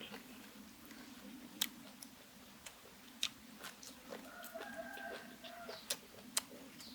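Chewing and crunching clicks from someone eating. About four seconds in, a chicken calls once: a drawn-out call of about a second.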